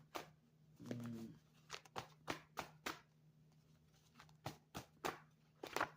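Scattered sharp clicks and taps, over a faint steady electrical hum, with a brief murmur of voice about a second in.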